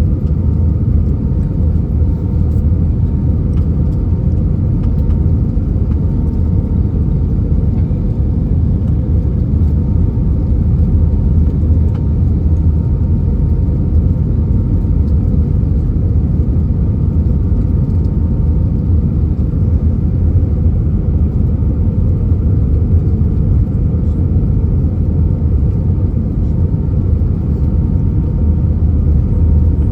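Steady low rumble inside the cabin of an Airbus A319 airliner, with a faint thin steady tone above it.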